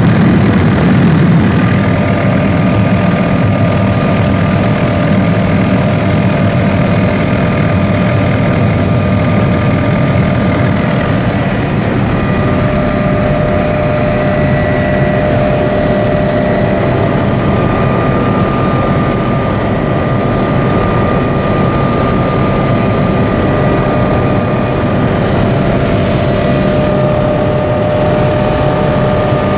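Helicopter in flight heard from inside the cabin: a loud, steady drone of engine and rotor with a few constant whining tones over it.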